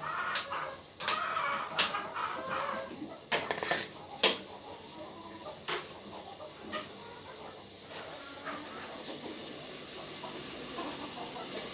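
Chickens clucking, mostly in the first few seconds, with a scattering of sharp clicks and knocks of cookware being handled.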